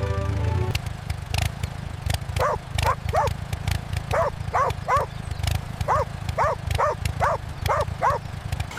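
An animal calling in a quick series of short yelps, about two a second, over a steady low rumble. Music cuts off just under a second in.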